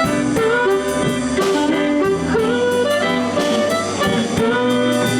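Live electric blues band playing an instrumental fill between sung lines: a blues harmonica plays sustained, bending notes over bass, guitar and drums with steady cymbal hits.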